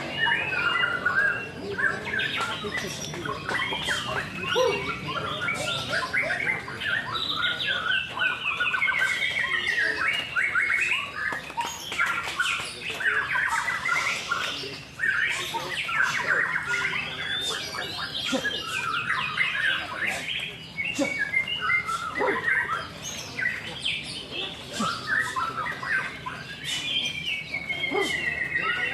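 White-rumped shamas (murai batu) singing, many rapid whistled phrases and chatters overlapping without a break.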